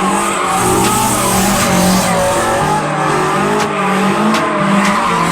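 A car drifting: the tyres squeal continuously while the engine revs rise and fall.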